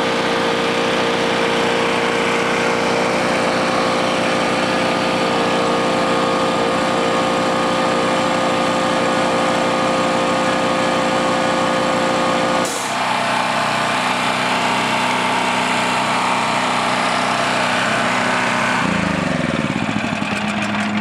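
Small gasoline engine driving an air compressor, running steadily under the compressor's load with its governor holding the throttle open. About two-thirds through, the sound changes abruptly, and near the end the engine's pitch drops.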